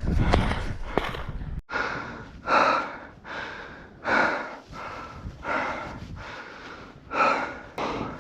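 A person breathing hard and fast, out of breath after hurrying on foot, with heavy breaths about one every 0.7 seconds. A low rumble fills the first second and a half before the breathing starts.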